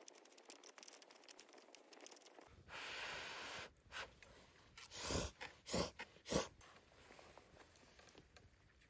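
Crackling and rustling, with a second-long rustle about three seconds in and three or four louder short crunches between about five and six and a half seconds in.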